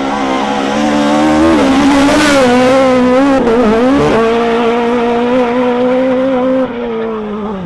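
Rally car engine running hard at high revs, held at a fairly steady high pitch with brief dips when the driver lifts, around a second and a half in and again near the middle.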